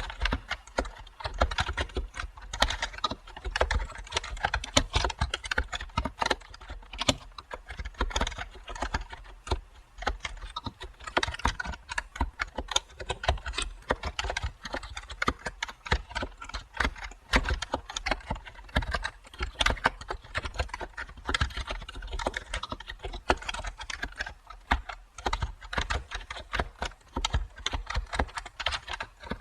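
Continuous typing on a computer keyboard: a dense, uneven run of key clicks, several strokes a second, with no pauses.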